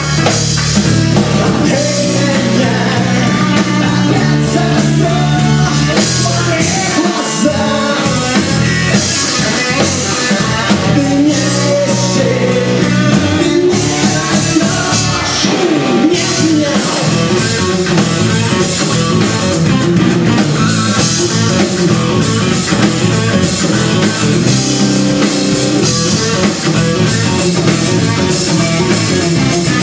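Rock music: an instrumental passage between sung verses, with guitar carrying the melody over bass and drums.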